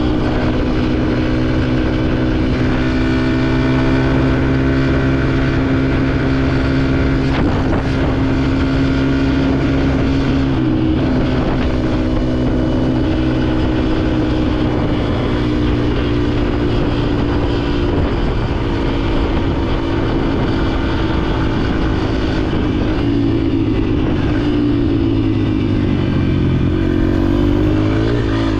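Dirt bike engine running at a steady speed under way. Near the end it eases off, then revs up sharply again.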